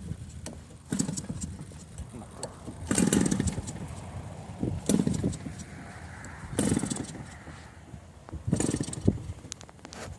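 Four-stroke model airplane engine running unevenly during its start-up, swelling in irregular loud surges every second or two.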